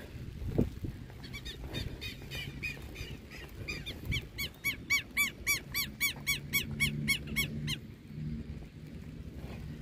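A bird calling in a rapid run of sharp, repeated notes, about four a second. The calls start faintly, grow loud about four seconds in and stop near eight seconds. A single thump comes just after the start, the loudest moment.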